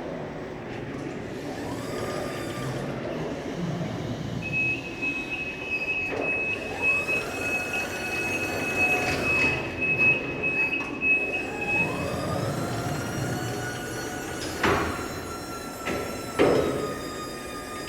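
Electric reach truck at work: its motor whines and rises in pitch several times as the truck moves or lifts, with a high steady warning tone sounding for several seconds in the middle. Two knocks near the end.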